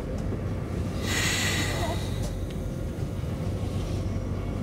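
Cabin of an SJ X40 double-deck electric train coming to a stop at a platform: a steady low hum from the train, with a short hiss about a second in.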